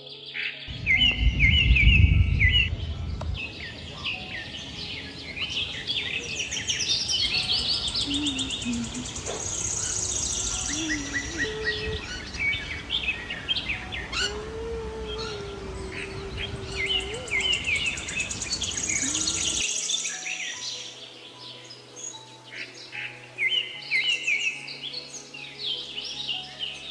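Many birds chirping and singing at once in a walk-in aviary, with rapid high chirps and trills. A loud low rumble comes about a second in, and a steady low noise bed under the birds cuts off abruptly about two-thirds of the way through.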